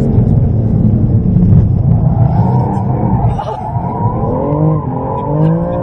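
BMW M3 engine heard from inside the cabin while being driven hard on a track, its note rising and falling with the throttle. The pitch dips and then climbs again about four to five seconds in.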